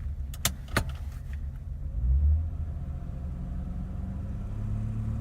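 A 1988 BMW 325's inline-six idling steadily as it warms up from a cold start. Two sharp clicks come about half a second in, and a dull thump about two seconds in.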